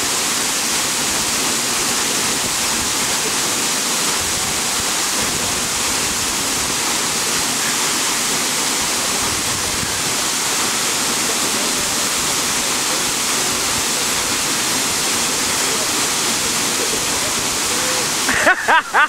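Waterfall pouring into a pool, a loud steady rush of water. A little before the end the rushing cuts off sharply and voices take over.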